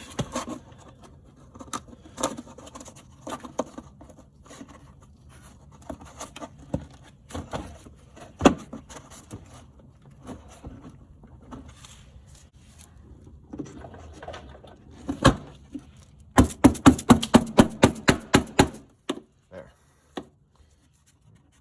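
Scattered knocks and scrapes of metal parts being handled. Then, near the end, about two seconds of rapid, evenly spaced clicking from a ratchet wrench running down a fender bolt.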